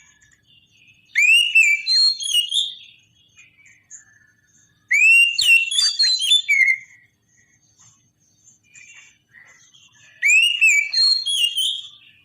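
Oriental magpie-robin singing: three loud bursts of rich whistled phrases made of quick notes that sweep up and down, a few seconds apart, with soft chirps between them.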